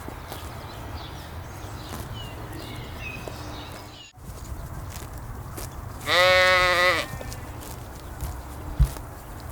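A sheep bleats once, a single loud bleat of about a second just past the middle, over a steady low background rumble. A few faint high chirps sound in the first few seconds, and there is a short thump near the end.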